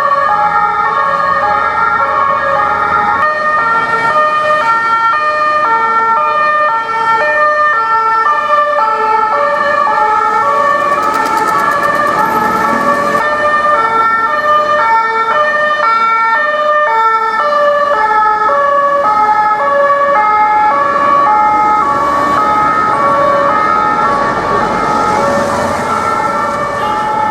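French two-tone police sirens alternating between two pitches, with more than one siren sounding at once and out of step with each other, over street traffic noise.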